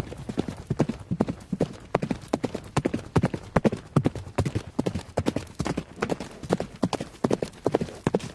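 Horse hooves clip-clopping on a hard surface as a sound effect: a steady run of hoofbeats, about three to four a second.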